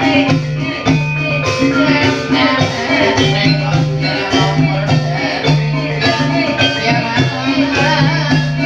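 Live gamelan music accompanying an ebeg dance: tuned struck percussion playing a busy interlocking pattern with drum strokes over a low note that sounds again and again in long held blocks.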